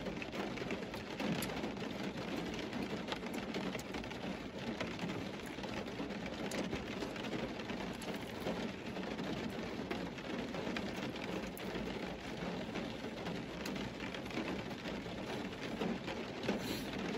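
Steady rain on the car's roof, heard from inside the cabin, with a few faint scattered ticks. A man chews a slice of pizza close to the microphone.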